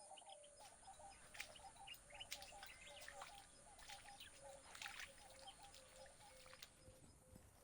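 Faint wild ambience: birds calling, one repeating a short call about twice a second, with scattered higher chirps over a steady high-pitched hiss.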